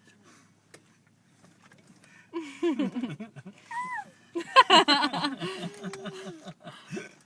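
A toddler vocalizing without words: babbling and squealing in short bursts that start about two seconds in, with a long drawn-out 'aah' near the end.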